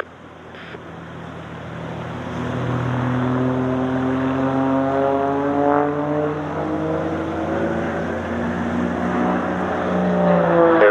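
Propeller aircraft engine flying past, a steady drone that grows louder over the first few seconds, then drops a little in pitch about halfway through as it passes.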